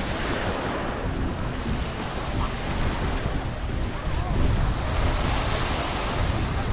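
Sea waves washing onto a sandy beach in a steady surf wash, with wind buffeting the microphone in a low, fluttering rumble.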